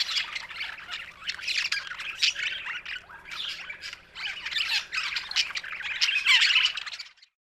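Budgerigar chattering: a dense, rapid stream of high chirps, warbles and squawks that stops abruptly about seven seconds in.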